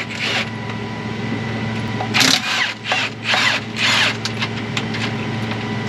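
Engine idling steadily, with a cluster of short, loud clattering noises about two to four seconds in.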